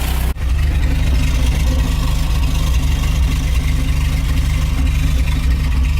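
Toyota 20R four-cylinder engine idling steadily through a new tube header and Magnaflow muffler, a deep, rapidly pulsing exhaust note that sounds cammed.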